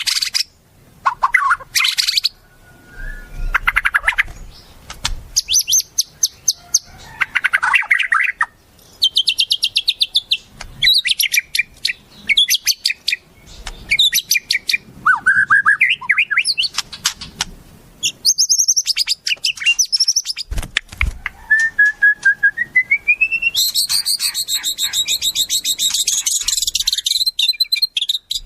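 Wild songbird song used for training shamas: a busy run of varied chirps, fast trills and whistles. A rising whistle near the end runs into a dense, high, rattling trill.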